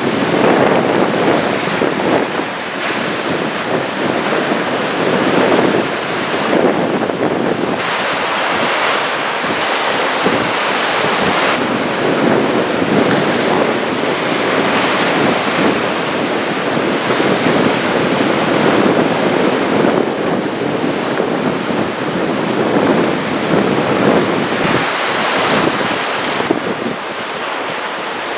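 Ocean surf from a big typhoon-driven swell, a steady rushing wash that swells and falls, with wind gusting across the microphone in stretches.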